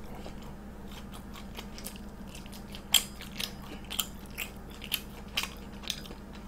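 Close-up chewing of a freshly fried, bread-crumbed Korean hot dog, its crisp crust crunching about twice a second from about three seconds in.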